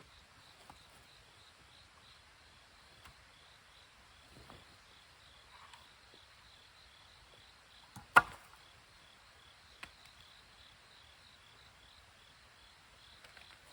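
Insects chirping in a steady, evenly pulsing rhythm, with a few faint clicks and one sharp loud click about eight seconds in.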